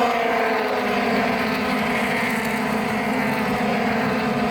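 Engine drone with several tones falling slowly in pitch over a steady low hum.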